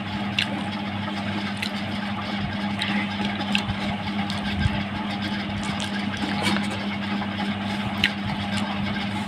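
A steady mechanical hum with a constant low tone, and a few small sharp clicks scattered through it as a meal of khichuri is eaten.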